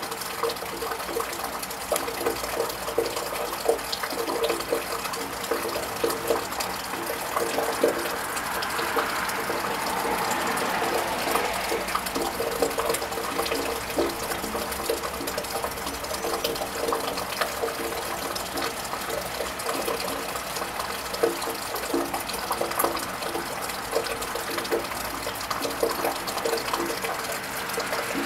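Steady rain with a scatter of small drip taps. About ten seconds in, a car passes on the wet road, its tyre hiss swelling and then fading.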